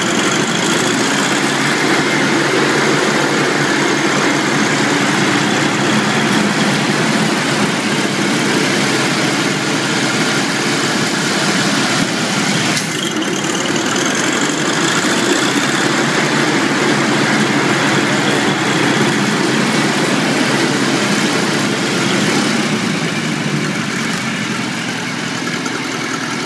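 International Harvester Cub Lo-Boy 184 tractor's four-cylinder gasoline engine running steadily with the PTO engaged, with a brief break about halfway through.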